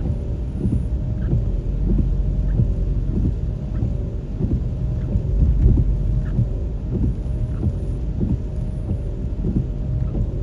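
Steady low rumble of road traffic, uneven with short surges, with a faint steady hum above it.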